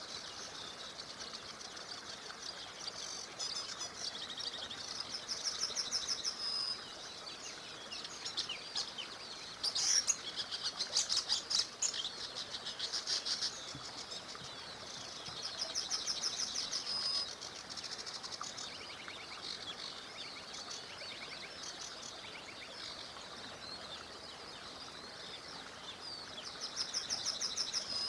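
Songbirds singing short, fast trilled phrases every few seconds over the steady rush of a small river.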